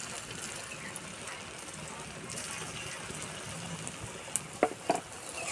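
Chhana patties sizzling as they shallow-fry in mustard oil in a kadai, a steady hiss. A few sharp clicks near the end.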